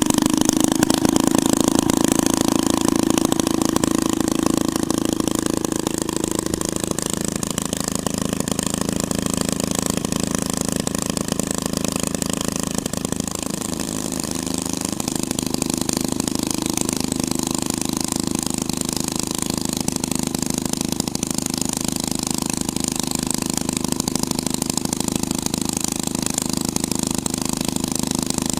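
Hot rod twin-engine motor running steadily at idle. About halfway through, its speed wavers and dips briefly, then settles back to an even idle.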